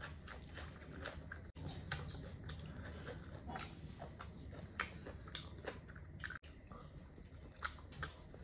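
A person chewing and eating chicken curry, with irregular wet smacks and small clicks of the mouth several times a second.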